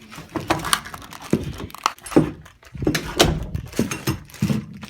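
Irregular knocks and clatter, several sharp hits a second.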